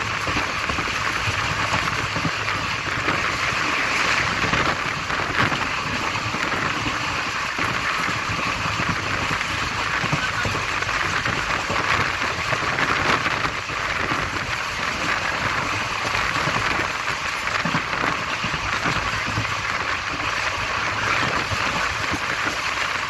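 Passenger train running: a steady rushing noise that carries on without a break.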